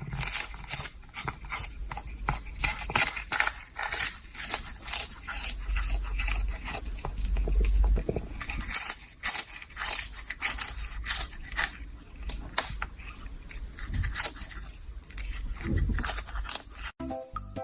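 Rapid, irregular scraping and crackling, with a low rumble now and then.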